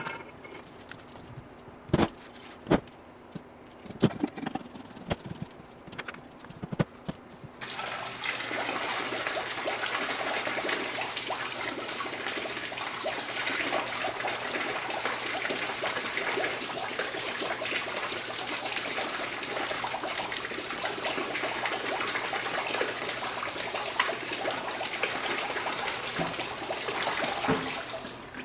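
A few scattered knocks and clicks, then a steady stream of liquid starts about eight seconds in and keeps running evenly.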